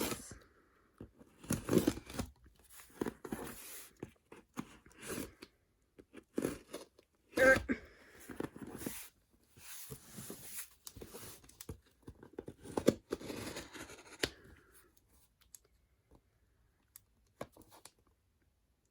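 A parcel being opened by hand: packaging tearing, crunching and crinkling in irregular bursts that stop about fifteen seconds in, followed by a few faint clicks.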